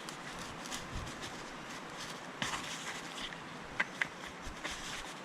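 Light taps and soft rustles of pieces of fish being turned in a bowl of dry pancake-mix coating, over a steady faint hiss, with a few sharper clicks about two and a half and four seconds in.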